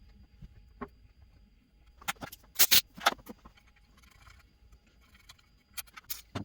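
Scattered sharp clicks and knocks, with a tight cluster of them about two to three seconds in and a few more near the end, typical of tools and parts being handled during a repair.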